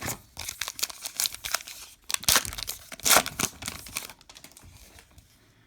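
Baseball card pack wrapper being torn open and crinkled by hand: a run of crackling rustles, with two louder tears near the middle, dying away after about four seconds.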